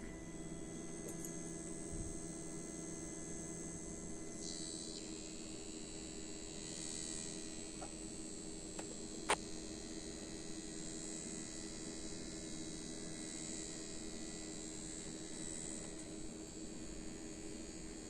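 Deepcool Gammaxx L120T liquid cooler pump running with a faint, steady electric hum and whine. Its higher whine shifts in pitch about four seconds in, and there is a single click about nine seconds in.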